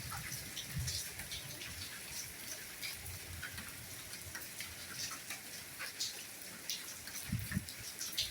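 Steady light rain falling, with scattered individual drops tapping close by and a few soft low thuds, one about a second in and more near the end.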